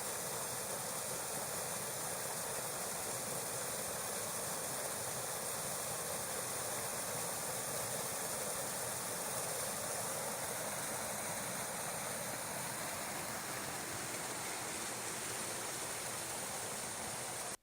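Water pouring over a small stone weir on a burn: a steady, even rush of falling water.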